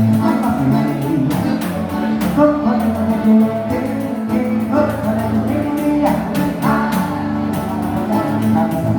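Live gaúcho dance-band music led by an accordion, with guitar and a singing voice, playing steadily.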